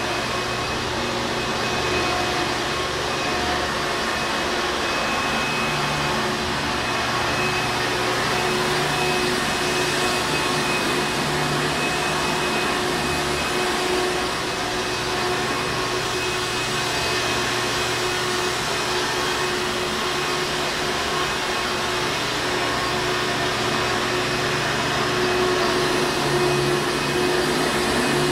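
Hoover Encore Supreme vacuum cleaner running steadily: an even rush of air with a constant motor hum.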